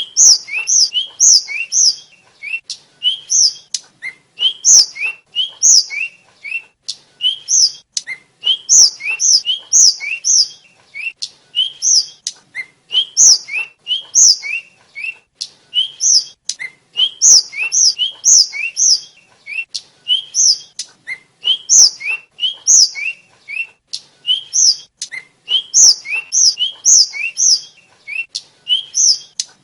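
Tledekan (sulingan), a small Javanese flycatcher, singing: a long string of short, high, falling whistled notes in quick groups of three to five, repeated with brief pauses.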